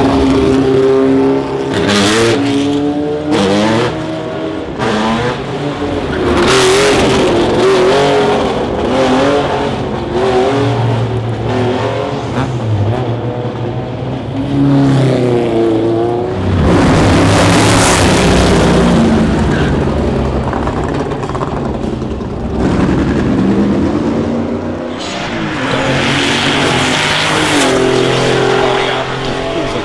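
Classic racing car engines revving hard as cars accelerate past. The pitch climbs and drops with each gear change, and it is loudest when a car passes close, about two, seven, eighteen and twenty-seven seconds in.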